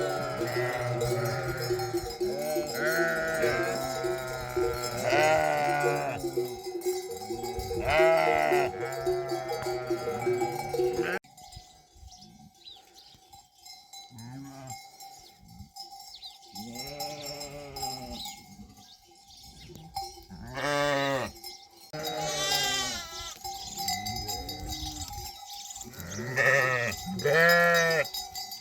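A flock of sheep and lambs bleating, with repeated calls overlapping, over the steady ringing of livestock bells. It is dense and loud for the first eleven seconds, then drops off suddenly, and after that separate bleats come every few seconds.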